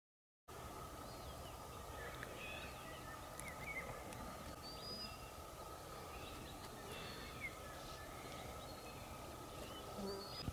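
Faint birdsong: many short chirps and whistles from several birds over a steady outdoor background hiss and hum, after a moment of silence at the start.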